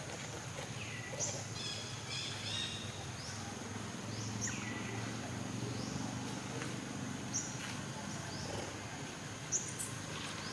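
Outdoor ambience: short, high chirping animal calls, some sweeping downward, come every second or two over a steady high-pitched drone and a faint low hum.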